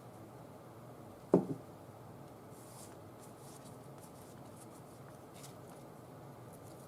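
A single sharp knock on a tabletop, followed at once by a smaller second tap, with faint scratching and rustling of craft work otherwise.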